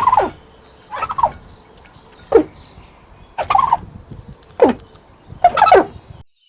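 Turkey gobbling: about six short calls roughly a second apart, each falling in pitch.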